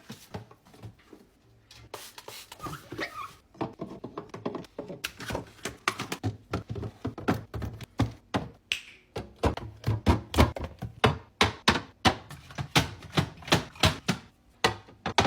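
Food containers and jars being set down and moved about on fridge shelves: a run of knocks and taps, sparse at first and then several a second through the second half.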